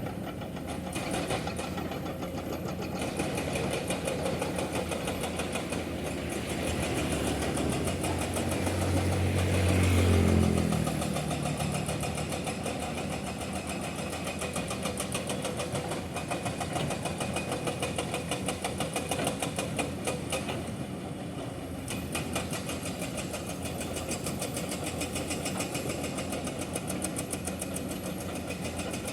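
Excavator's diesel engine running with its hydraulic breaker hammering limestone in a rapid, continuous rattle. About ten seconds in the engine swells and then falls in pitch.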